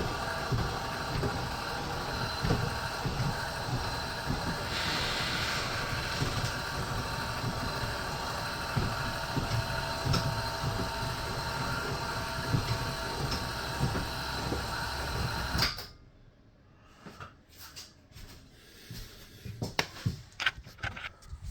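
Heartland RV leveling jack system's motor running with a loud, steady mechanical whine and rumble, then cutting off suddenly; a few faint clicks and knocks follow.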